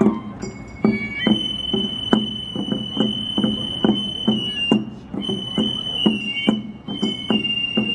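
Festival music: a high flute holds long notes that step in pitch over steady drum beats, about two a second.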